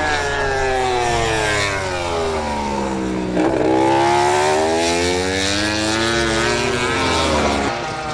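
MotoGP racing motorcycle engine, its revs falling steadily, then jumping up sharply about three and a half seconds in and falling again.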